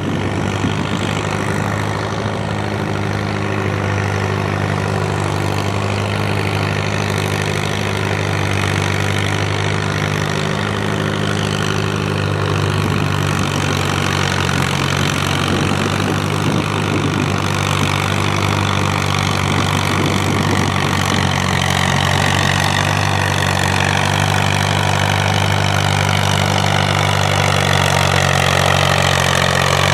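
Antique farm tractor engine running steadily at an even pitch, growing slowly louder.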